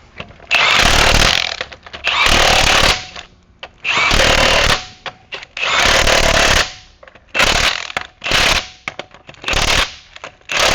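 Impact wrench hammering in a series of short bursts, each under a second, with brief pauses between, as when running lug nuts onto a wheel.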